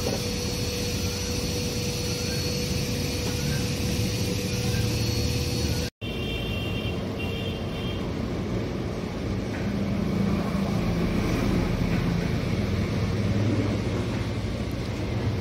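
Steady vehicle noise: a motor hum with a high whine that breaks off suddenly about six seconds in. It is followed by the low rumble of a car engine and road traffic, with the engine note rising a little partway through.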